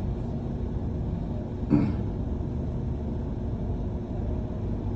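Steady low rumble of a bus's engine and road noise, heard from inside the moving bus. About two seconds in, one short vocal sound, like a brief cough or grunt, stands out as the loudest moment.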